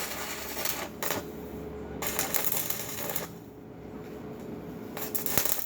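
Electric arc welding: the arc crackles and sizzles in several bursts of about a second each, with short breaks between them, over a faint steady hum.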